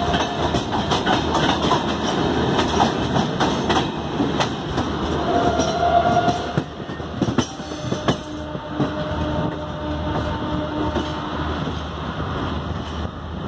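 Shatabdi Express LHB passenger coaches running past at speed close by, with a rapid clickety-clack of wheels over rail joints and a brief high tone about halfway. The clatter stops after the last coach passes, leaving the train's rumble fading away.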